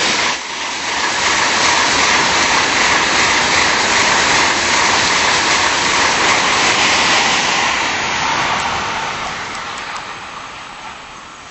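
Tokaido Shinkansen bullet train passing at high speed close by: a loud, steady rush that fades away over the last few seconds as the train draws off.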